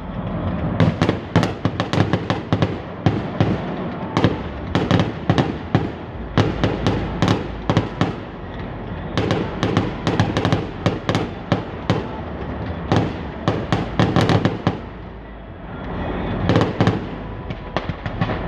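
Fireworks going off in rapid volleys of sharp bangs and crackles, with a short lull about fifteen seconds in before a final burst.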